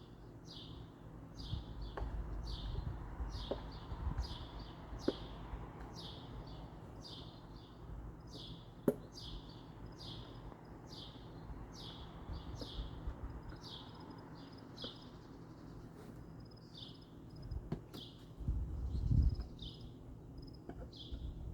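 A small bird calling over and over, one short high note falling in pitch about once a second, over a low outdoor rumble with a few light knocks.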